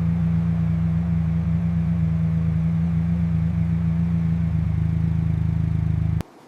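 Car engine idling steadily with a low, even hum, which cuts off suddenly about six seconds in.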